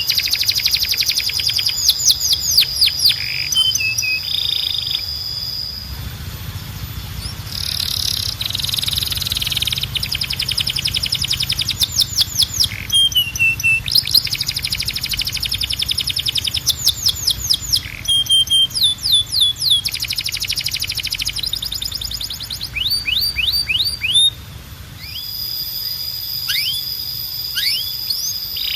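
Canary singing: rapid trills of repeated down-slurred notes alternate with long, steady, held whistles.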